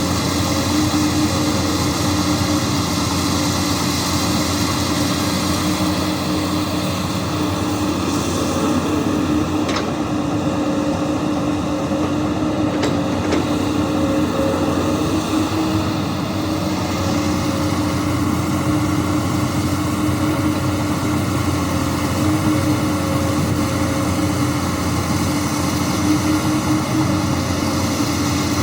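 Komatsu PC200 hydraulic excavator's diesel engine running steadily at working speed, a constant drone with a steady hum in it and two faint ticks near the middle.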